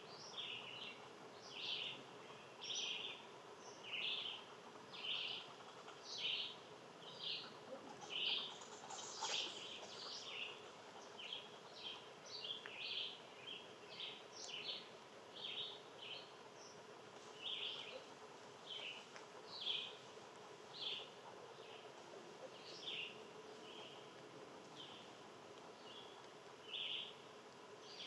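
Outdoor nature sound with short high chirps repeating about once a second, from a bird or an insect. A brief, higher and fuller call comes about nine seconds in.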